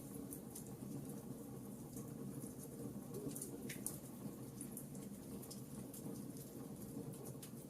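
Campfire crackling: frequent small, irregular pops and snaps over a steady low noise of burning.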